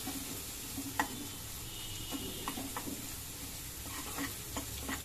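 Coconut-and-garlic paste with curry leaves sizzling in hot oil in a non-stick kadhai while a steel spoon stirs it, with a few clicks of the spoon against the pan, the clearest about a second in.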